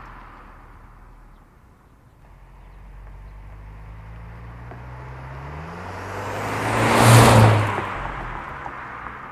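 Subaru WRX S4's turbocharged 2.0-litre boxer engine through an STI aftermarket exhaust, accelerating past with its exhaust note rising in pitch. It is loudest about seven seconds in as the car passes, then fades as it drives away.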